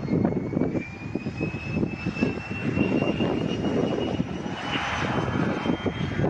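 Cessna 680A Citation Latitude's twin turbofan engines running, a low rumble under a thin whine that rises slowly in pitch.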